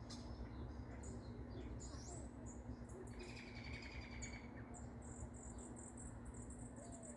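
Baby birds chirping: scattered high-pitched chirps, then from about halfway a rapid, continuous run of very high chirps. A faint steady low hum sits underneath.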